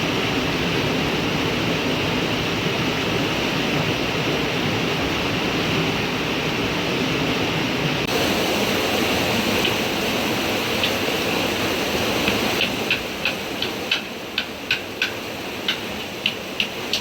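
Steady rushing water, river or heavy rain, makes an even noise throughout. Over the last few seconds about a dozen sharp taps or knocks come in quick, irregular succession.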